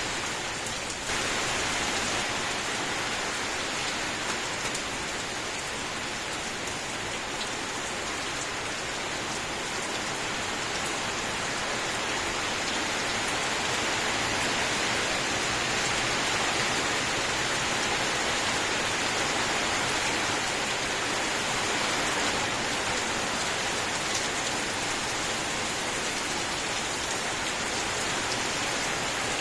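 Steady rain falling, a dense, even hiss of many drops with no let-up.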